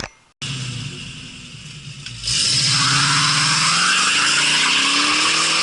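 Car engine running and then revving up, its pitch rising slowly. About two seconds in, a loud steady rushing hiss joins it.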